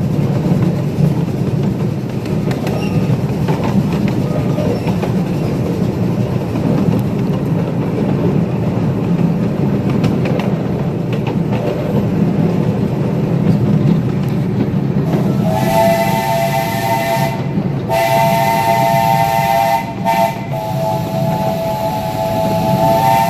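A live steam locomotive and its train running along the track with a steady rumble. Past the middle, the locomotive's chime whistle sounds three times, a chord of several tones with a hiss of steam, the last blast the longest.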